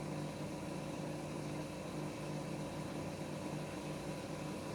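Bosch dishwasher filling with water at the start of its wash cycle: a steady hum with the even hiss of water running in.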